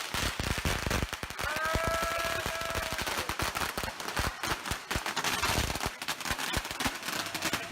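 Strings of firecrackers going off in rapid, irregular bursts of sharp cracks, as set off along a Shōrō Nagashi spirit-boat procession. A brief held pitched tone sounds over the cracks early on.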